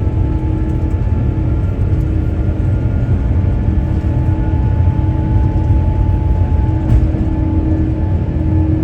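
Airbus A350-900 cabin noise under jet engine power: a loud, steady low rumble with several steady whining tones on top, heard from inside the cabin.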